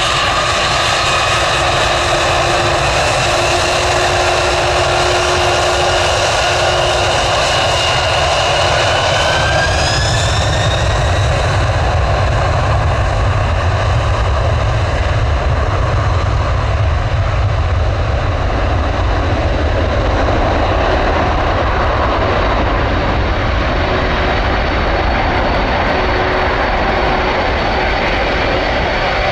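Jet airliner engines running loud and steady over a deep rumble. Their whine rises in pitch about ten seconds in, as when the engines spool up, and afterwards the high hiss thins out.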